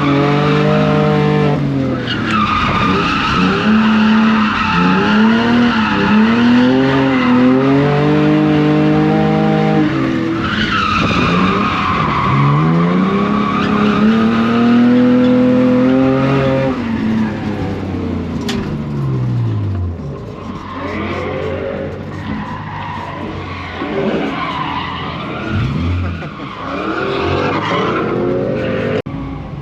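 E46 BMW drift car drifting: the engine revs rise and fall repeatedly over two long stretches of tyre squeal. About two-thirds of the way through, the squeal dies away and the engine keeps revving up and down more lightly.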